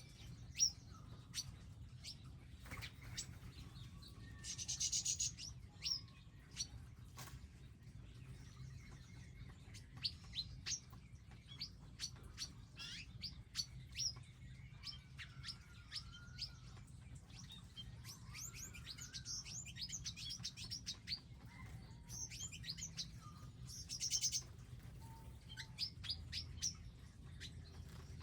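Several small wild birds chirping and calling at feeders, with many short, high chirps throughout and two brief buzzy trills, about five seconds in and again near the end. A steady low rumble runs underneath.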